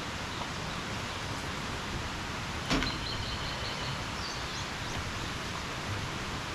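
Steady wash of monsoon rain and a swollen mountain stream, an even hiss. About two and a half seconds in there is a single sharp knock, then a few faint high chirps.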